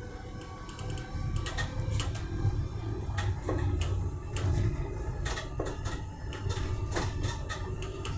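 Train running on the rails, heard on board: a steady low rumble with many irregular clicks and clacks from the wheels on the track.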